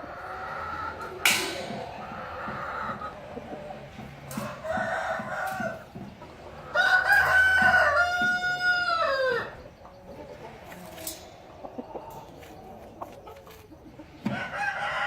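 A rooster crows once, a long crow starting about seven seconds in whose pitch falls away at the end, among shorter clucks and calls from chickens. A sharp click sounds about a second in.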